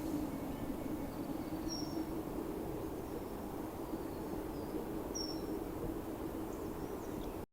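Outdoor ambience: a steady low drone, with a small bird giving two short high chirps, one about two seconds in and another about five seconds in.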